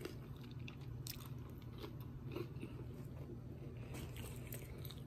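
A person chewing a bite of chicken wing, with faint, scattered crunches; the eater finds the chicken dry and overcooked.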